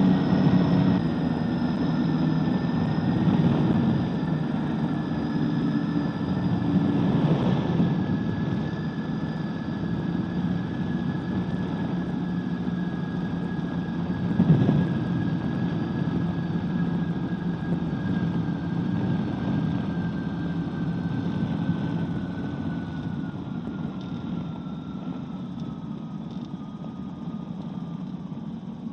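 Microlight trike's engine and propeller droning steadily at low power, with a whine that slowly falls in pitch as the aircraft slows. A brief thump about halfway through, and the drone grows quieter toward the end.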